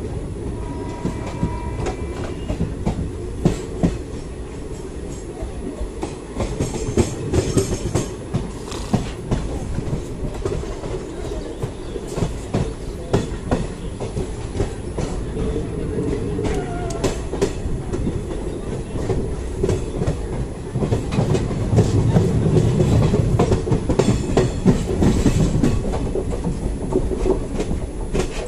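Indian Railways passenger train running, heard from on board: a steady rumble with the wheels clicking over rail joints. The rumble swells louder about three quarters of the way through.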